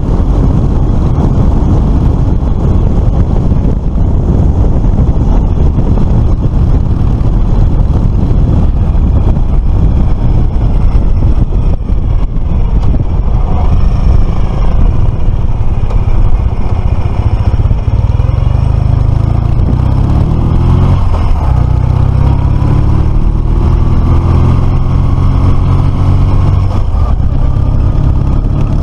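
Motorcycle riding at speed: the engine runs under heavy wind and road rumble on the microphone, and its pitch rises several times in the second half as it accelerates.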